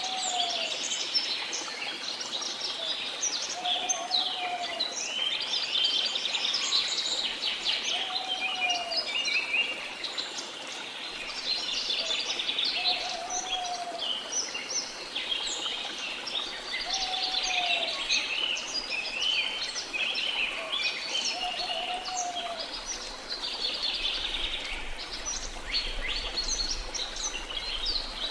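A dense forest bird chorus, many birds chirping and trilling over one another without pause. A lower call that rises and falls repeats about every four seconds through it.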